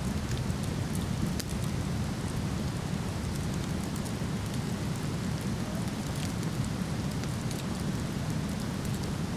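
Waterfall rushing steadily, with sparse crackles and pops from a wood fire burning close by.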